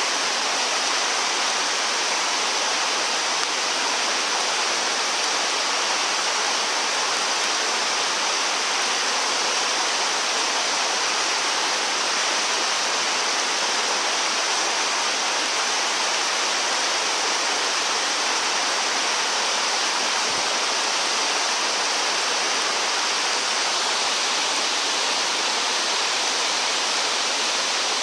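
Steady rush of flowing stream water, an even hiss that never changes.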